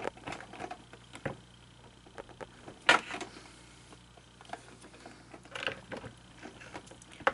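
Irregular clicks and knocks of small plastic parts being handled and fitted together, with one sharper click about three seconds in and a few more near the end.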